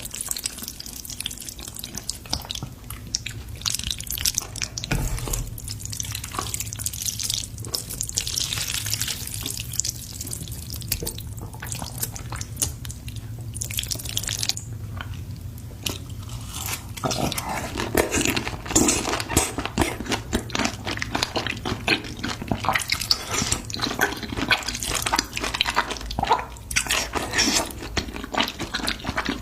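Eating spicy noodles with beef intestines: wet slurping and chewing with many small smacking mouth clicks, getting louder and busier a little past halfway.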